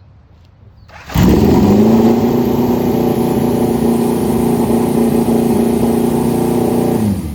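Motorcycle engine running at steady revs. It cuts in abruptly about a second in, holds one even pitch, and fades out near the end.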